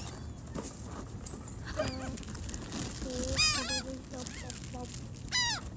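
A flock of birds calling: short, harsh calls that slide down in pitch. They come in a quick run about three and a half seconds in and again near the end, with lower, flatter squawks between.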